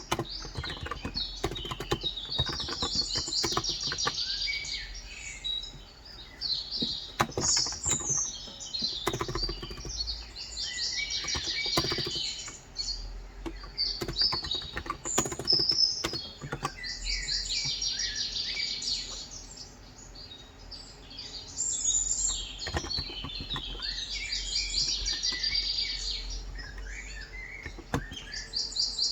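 Birds singing in repeated trilled phrases, one every few seconds. Under them are irregular clicks of typing on a tenkeyless electrostatic capacitive keyboard (COX Endeavor, 35 g switches).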